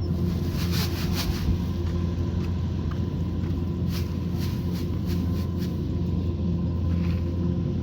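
Kubota combine harvester's diesel engine running steadily under load, with a few light clicks and rattles from the machine.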